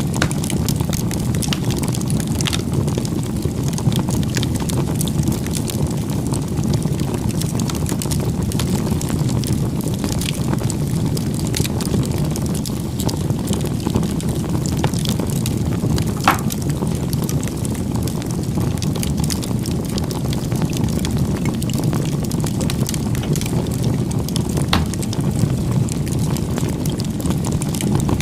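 Campfire burning: a steady low rumble of flames with scattered crackles and a few sharper pops, the loudest about sixteen seconds in.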